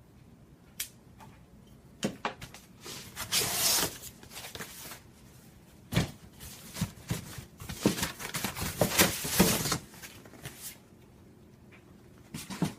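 Unboxing noises: cardboard and packing material rustling and scraping, with scattered knocks and clicks and one sharp knock about six seconds in.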